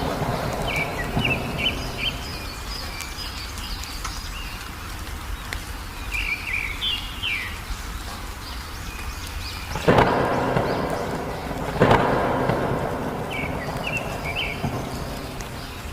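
Thunder over steady rain: a rumble at first, then two sharp cracks about ten and twelve seconds in, each rolling off slowly. Songbirds chirp in short phrases between them.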